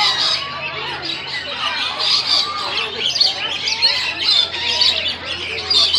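A crowd of small parrots, cockatiels among them, chirping and squawking all at once: a dense, unbroken chatter of many overlapping calls.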